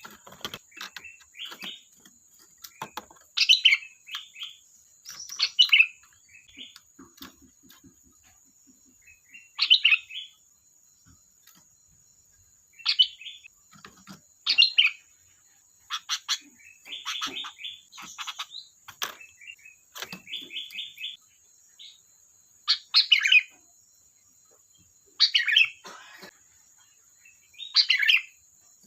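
Sooty-headed bulbul (kutilang) singing: short, bright chirping phrases repeated every two to three seconds, with a faint steady high whine underneath.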